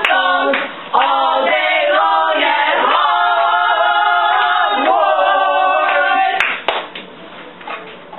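A small group of voices singing together in a sung chant, stopping about six and a half seconds in; quieter room noise with a few sharp clicks follows.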